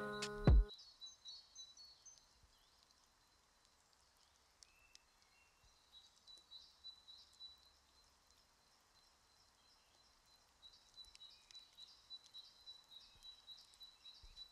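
Outro music cuts off about half a second in, leaving faint bird chirping: short, high notes in little clusters that die away twice for a couple of seconds and return, busiest near the end.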